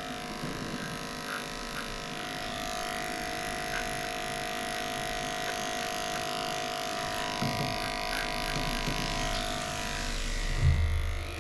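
Electric dog grooming clipper running steadily, shaving off a matted coat, then switched off near the end.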